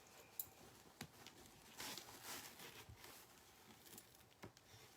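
Faint taps and rustling of craft supplies being handled on a tabletop, a few light clicks among soft swishes.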